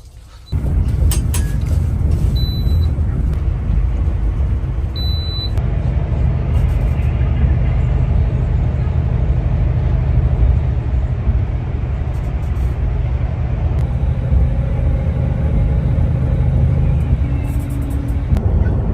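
Long-distance coach bus under way, heard from inside the cabin: a steady low rumble of engine and road noise.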